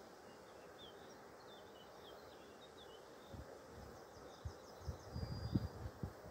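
Small birds chirping in short, quick notes and a brief trill over a faint, steady outdoor hiss. Irregular low thumps and rumbles come in from about three seconds in and are loudest near the end.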